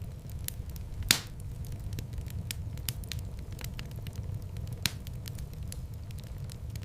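Wood fire burning in a fireplace: a steady low rumble of flame with frequent small crackles, a loud pop about a second in and another sharp snap near the end.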